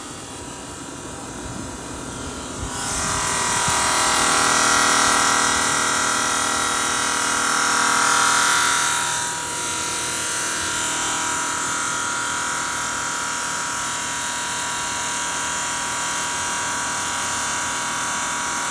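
CNC bridge saw running, a steady motor whine made of several steady tones. About three seconds in it grows louder with an added hiss, and a few seconds later it drops back to a steady running sound.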